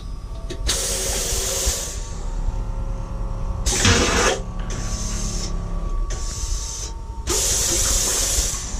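Several short bursts of hissing, each under about a second, over a steady low rumble.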